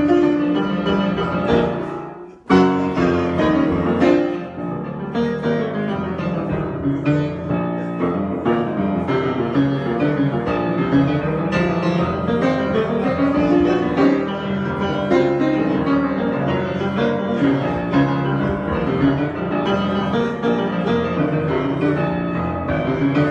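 Piano improvisation played continuously with many shifting notes and chords. About two seconds in, the playing fades to a brief pause, then comes back with a loud struck chord.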